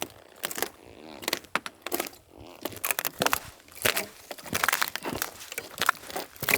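Footsteps on a frozen wooden boardwalk covered with wire-mesh fencing, the frost build-up on the boards giving crisp cracking sounds with each step, in an irregular series of crackles.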